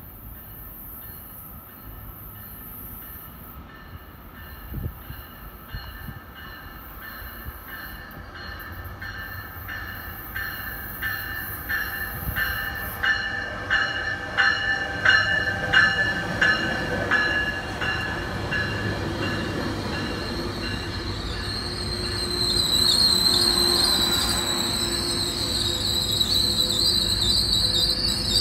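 Metrolink commuter train rolling into the station with a growing rumble. Its bell rings evenly, about two strokes a second, getting louder as the train nears and then fading. Near the end a high, wavering wheel squeal sets in.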